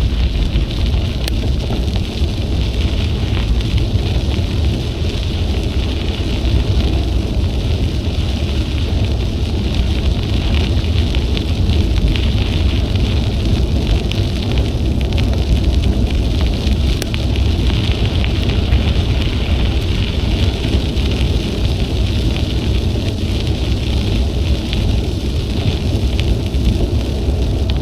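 Wind rushing over an action camera's microphone while cycling, a steady low rumble, with a constant hiss of bicycle tyres rolling on the trail.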